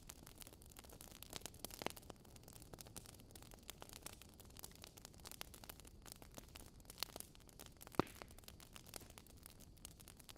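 Wood fire in a fireplace crackling faintly, with irregular small pops and snaps over a low steady hiss; one sharper pop about eight seconds in.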